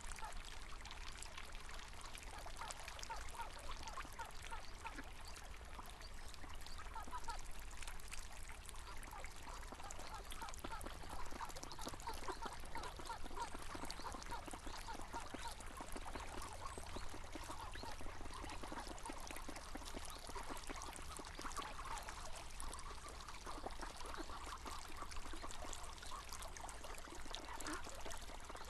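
River water flowing steadily, with ducks quacking repeatedly over it; the quacking becomes busier about a quarter of the way in.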